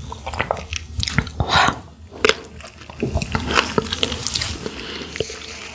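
Close-miked mouth sounds of eating sandfish: wet chewing and smacking, with many short irregular clicks and pops.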